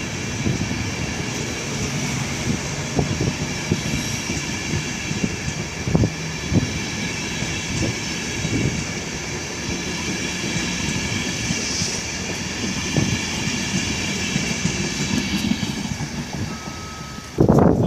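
A train running past, with a steady high whine of several tones and scattered knocks from its wheels on the track.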